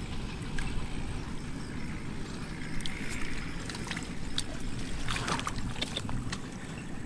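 Shallow muddy water sloshing and splashing as hands grope through it, over a steady low rumble, with scattered small clicks and a louder splash about five seconds in.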